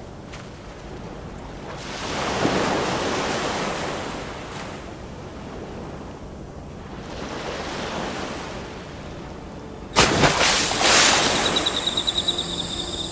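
Sea waves washing ashore, swelling and falling away twice. About ten seconds in an abrupt, louder rush of noise cuts in, and near the end a high, fast-pulsing chirring begins.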